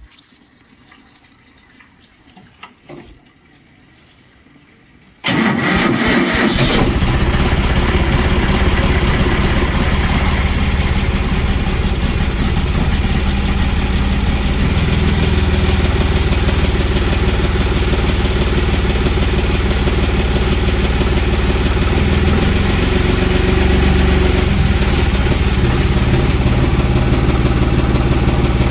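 John Deere 5305 tractor's three-cylinder diesel engine cranked by the starter and catching about five seconds in, then running steadily.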